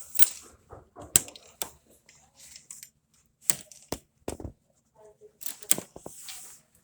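Handling noise: a string of sharp clicks and knocks about a second apart, with short rustles in between.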